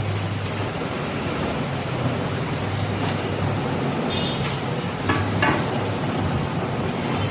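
Steady running machinery: a low engine-like hum under broad mechanical noise, with a few short higher-pitched sounds about four to five seconds in.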